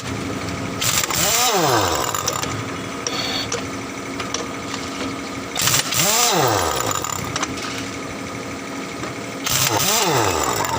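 An air-powered tyre repair tool, such as a reaming drill or buffer, is triggered in three short bursts. Each time it spins up to a high whine, hisses with exhaust air and winds down when released. A steady mechanical hum runs underneath.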